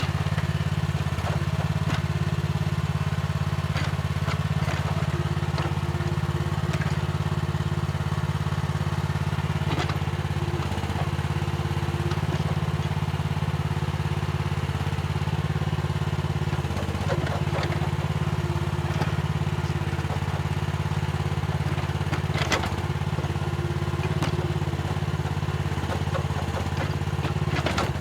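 Mini excavator's diesel engine running steadily, with a scattered handful of short clanks and knocks as it works the soil.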